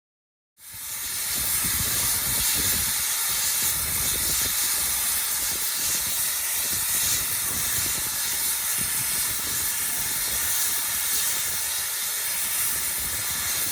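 Steam locomotive Rx207 hissing steam: a steady hiss that starts about half a second in and holds, with a faint low rumble beneath it.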